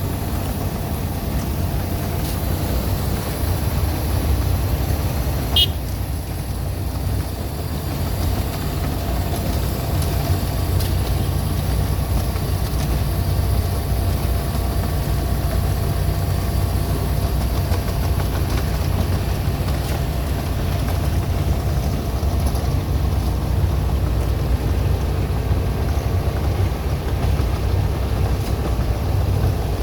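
Steady low rumble of a motor vehicle's engine, with one short high-pitched beep about five and a half seconds in.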